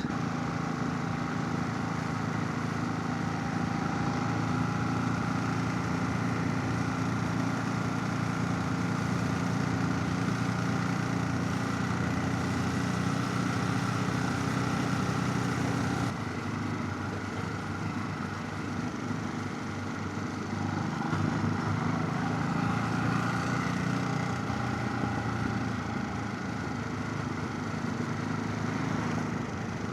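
Motorcycle engine running steadily under way, heard from a helmet chin-mounted camera, with wind noise. The engine note changes abruptly about halfway through.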